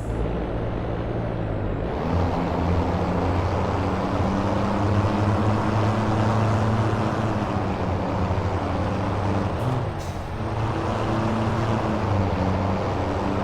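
Scania V8 diesel truck engine running steadily, with a brief dip in level about ten seconds in.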